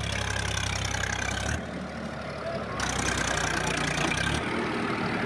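Tractor diesel engine running steadily, its level shifting abruptly a few times.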